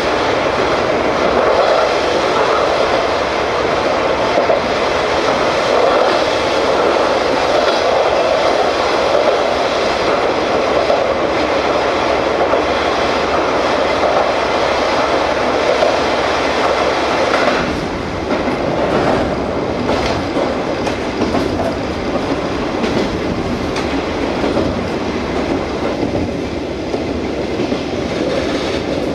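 KiHa 47 diesel railcar running, heard from inside the passenger cabin: a steady rumble of wheels on rail and running gear. About two-thirds of the way in, the sound shifts and becomes slightly quieter.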